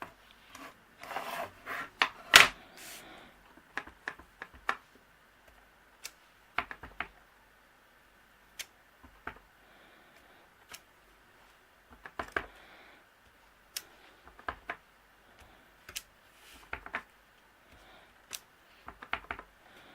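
Irregular taps and clicks of a photopolymer rubber stamp being inked on an ink pad and pressed again and again onto card on a tabletop. The loudest cluster of taps comes about two seconds in.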